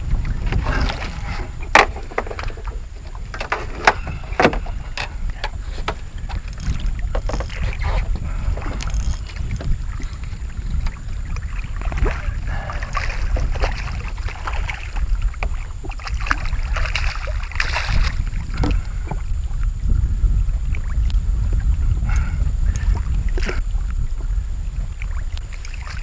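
Steady low rumble of wind on the microphone aboard a small skiff, with scattered sharp knocks and clicks from gear against the boat, the loudest about 2 and 4.5 seconds in, while a hooked redfish is fought and landed.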